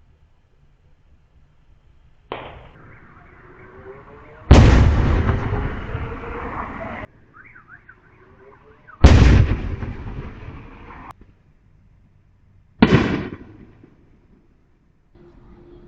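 Illegal neighborhood fireworks exploding: four sudden loud bangs a few seconds apart, each ringing out and dying away over a second or two, the second and third loudest. A faint wavering tone sounds between some of the bangs.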